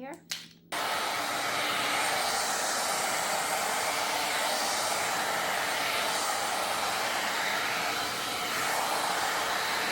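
A 3-in-1 hot air styling brush (a hair dryer with a brush head) switching on under a second in and then blowing steadily.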